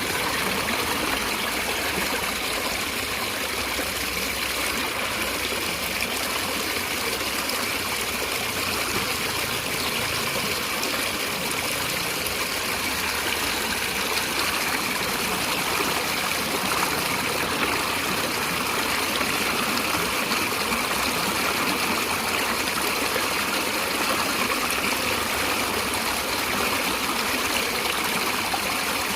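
Stream water flowing and splashing over rocks, a steady rushing sound with no change.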